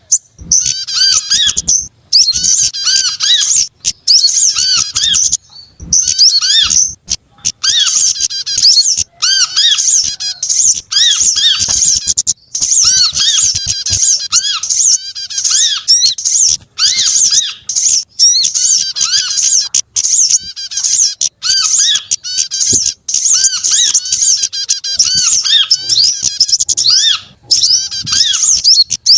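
Small songbirds calling in a bird-lure recording: a dense, nearly continuous high chattering of chirps and trills, broken by short gaps every second or two, with a repeated lower call running underneath.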